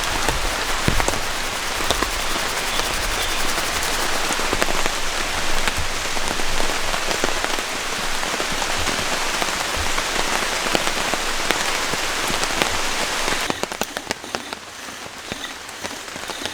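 Steady rain falling, a dense hiss with many individual drops ticking close by; about thirteen and a half seconds in it suddenly becomes quieter.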